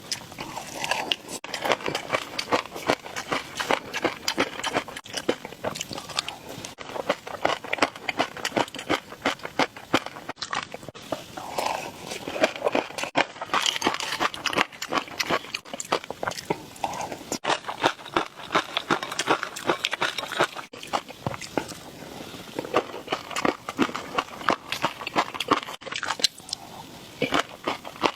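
Close-miked eating for ASMR: steady, irregular chewing and crunching with many quick wet crackles and clicks.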